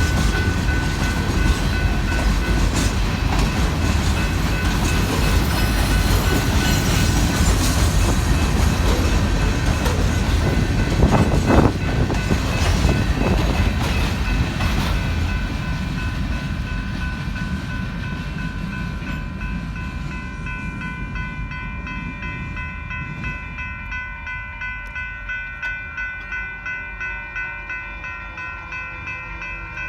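Loaded Union Pacific limestone freight train rolling past: a heavy rumble and clatter from the cars, fading away over the second half. It leaves a steady high ringing that pulses a little over once a second.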